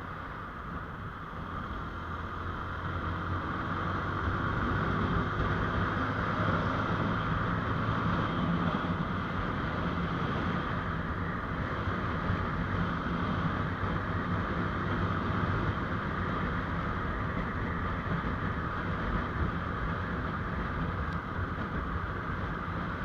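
GPX Gentleman Racer 200R motorcycle engine running under way, with steady wind and road noise; it picks up speed a few seconds in, then holds steady.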